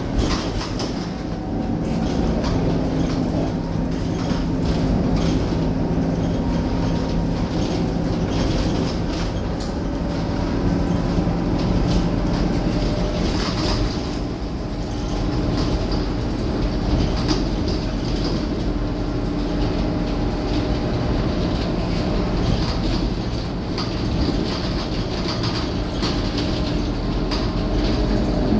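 Scania K230UB city bus under way: a steady diesel engine and drivetrain drone whose tones drift up and down as the bus changes speed, with frequent light body rattles and clicks.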